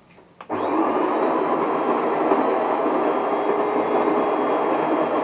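De'Longhi ESAM1000SJ automatic espresso machine running: a loud, steady mechanical grinding hum that starts suddenly about half a second in.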